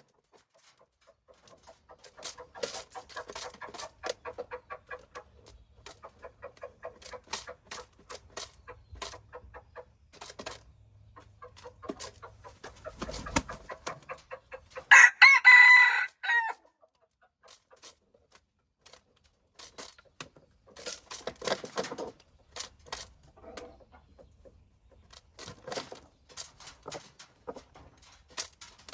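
Chickens clucking and calling throughout, with one loud rooster crow of about a second and a half about halfway through.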